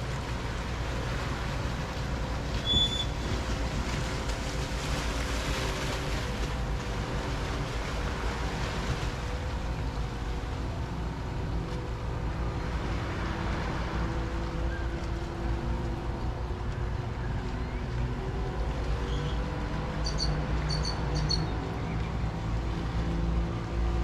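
Waves washing on the shore under the steady hum of a boat motor, with a few short bird chirps near the end.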